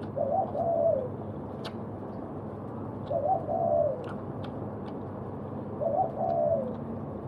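A bird calling: a short, low phrase of a few notes that falls at the end, repeated three times about every three seconds.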